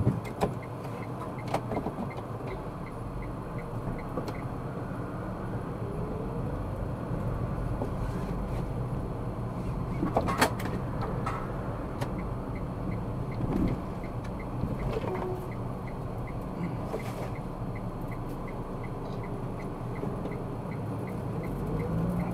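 Car driving in city traffic, recorded by a dashcam: a steady low road and engine rumble, with a faint, evenly spaced ticking and a few sharp knocks, the loudest about ten seconds in.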